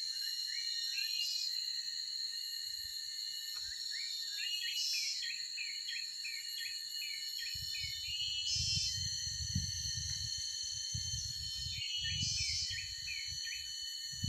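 Forest ambience: a steady high-pitched insect chorus of crickets, with a bird singing runs of short rising chirps several times. From about halfway in, an uneven low rumble joins it.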